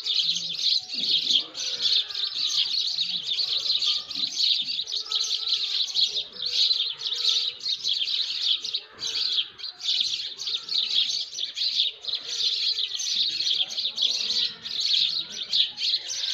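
Many birds chirping and twittering at once in a dense morning chorus. The high, thin chirps run without a break, with lower whistled and sliding calls from other birds mixed in.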